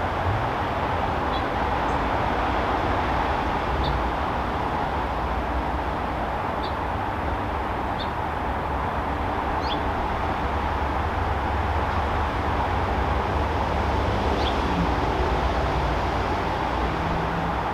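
Steady backyard ambience: a constant low rumble and hiss, like distant traffic. Faint short high chirps, likely small birds, come every few seconds.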